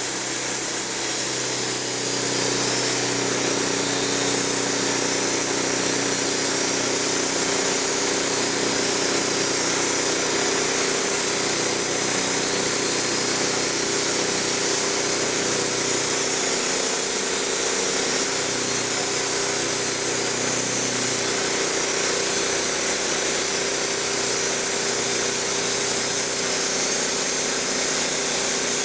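Wood-Mizer LT15 portable band sawmill running steadily, its band blade sawing lengthwise through a log.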